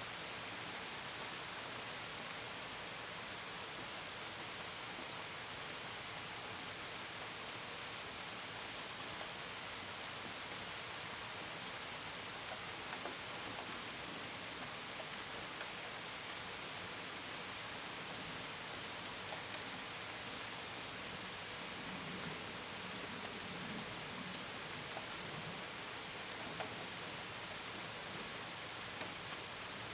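Steady gentle rain, an even hiss with scattered drops pattering on a window and gutters, and crickets chirping faintly in a continuous string of short pulses under it.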